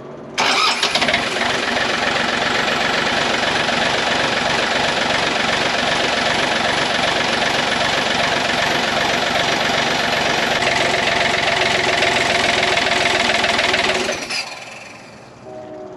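Takeuchi excavator's diesel engine running loud and steady for about fourteen seconds. It comes in abruptly just after the start and drops away sharply near the end.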